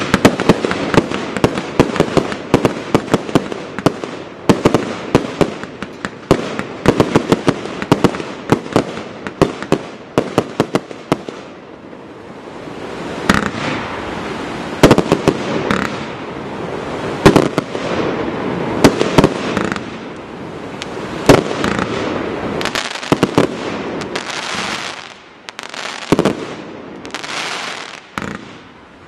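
Compound firework cake of 25 and 30 mm calibre firing, a rapid stream of sharp launch shots and aerial bursts overlapping one another, with a couple of brief lulls.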